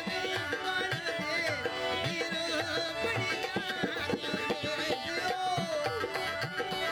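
Rajasthani Manganiyar folk song played live: a hand drum keeps a steady beat under held, drone-like notes and a gliding melody line.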